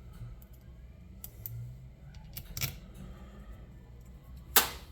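Small metal parts being handled while hinge pins are test-fitted: a few light clicks and taps, then one sharp click near the end.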